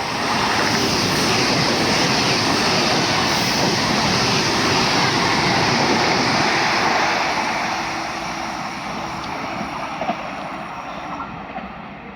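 A train passing: steady rushing wheel and rail noise that builds within the first second, holds, then slowly fades from about seven seconds in.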